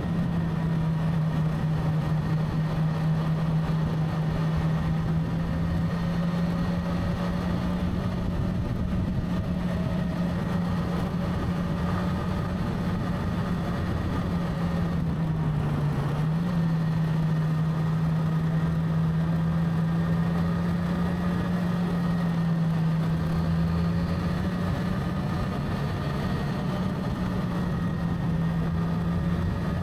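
Motorcycle engine running at a steady cruising speed, its pitch holding level except for a brief dip and recovery about halfway through, over a constant rush of road and wind noise.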